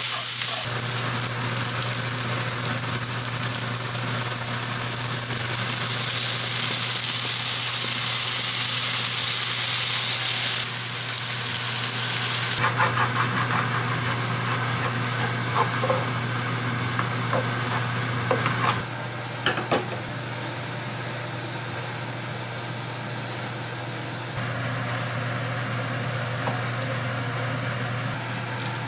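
Pork and diced onion sizzling in a frying pan with a steady hiss. After about ten seconds it gives way to a quieter hiss with clicks and scrapes as rice is stir-fried with jjajang sauce and a wooden spatula.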